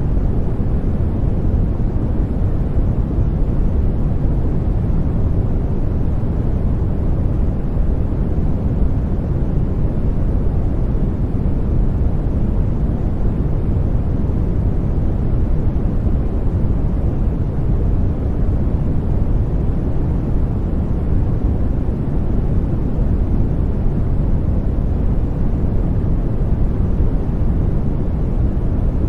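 Steady, unchanging white noise weighted toward the low end, a deep even hiss without any tones or breaks, played as a sleep aid for babies.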